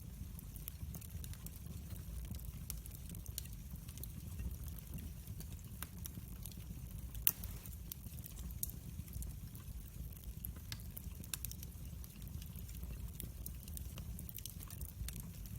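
Campfire crackling, with scattered irregular pops and one sharp louder pop about seven seconds in, over a steady low rumble.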